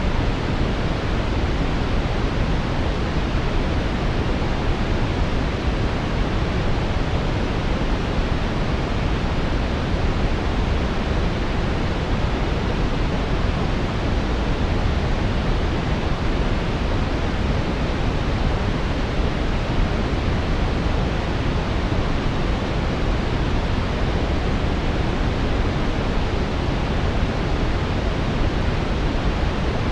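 Steady brown noise: an even, deep rushing hiss, strongest in the low end and fading toward the highs, unchanging throughout.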